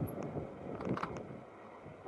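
Bicycle riding noise: a low rolling rumble with a few light mechanical clicks and rattles about halfway through, growing quieter toward the end.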